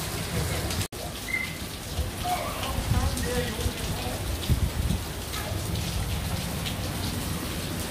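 Steady rain falling on a swimming pool and its surroundings, an even hiss of drops, broken by a brief dropout about a second in.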